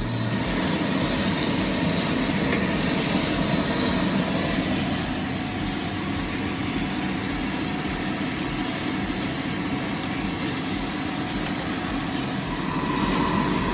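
A 1 kg-per-batch coffee roasting machine running steadily, a continuous mechanical hum with a rush of air.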